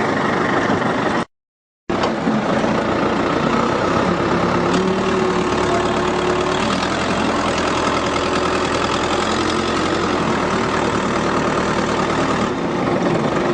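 Engine of the hoisting machine running steadily while it lifts a car. A faint steady whine sits over it in the middle. The sound cuts out completely for about half a second about a second in.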